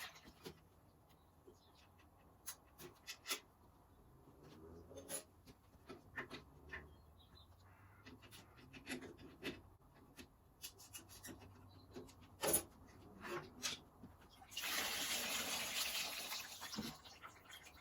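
Engine coolant draining from a hose into a container, with scattered light clicks and knocks of handling. Near the end, a louder rush of pouring lasts about two seconds.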